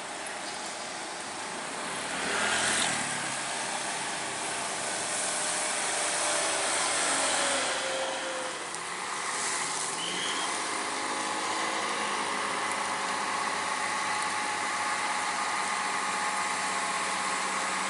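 Road traffic: vehicle engines running with steady road noise, louder as vehicles pass about two to three seconds in and again midway.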